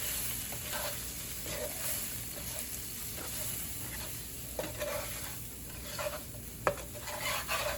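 Spinach and onions sizzling in a frying pan as they are stir-fried, with the scrape and knock of a wooden spoon against the pan, more often in the second half.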